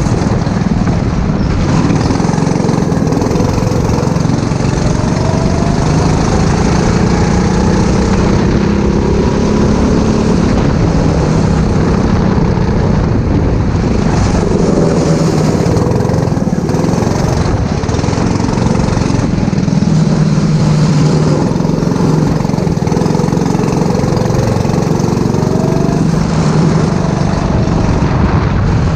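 Go-kart engine running hard during a race, its pitch rising and falling again and again as the kart speeds up and slows for corners, over steady rushing noise.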